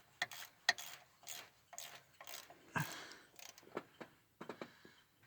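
Hand ratchet wrench clicking in short strokes, about two a second, as a bolt is turned in on the truck's engine; the clicking stops near the end.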